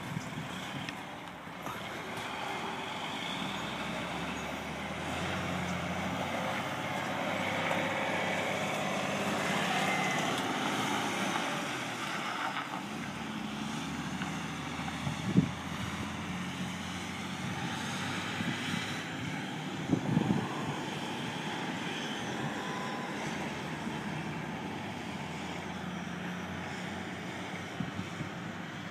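Heavy truck engine running as the truck moves slowly, growing louder over the first ten seconds or so and then easing off. Two sharp knocks stand out, one about halfway through and another a few seconds later.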